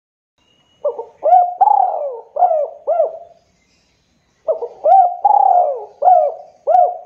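Dove cooing in two phrases of four or five short coos each, the first starting about a second in and the second about four and a half seconds in.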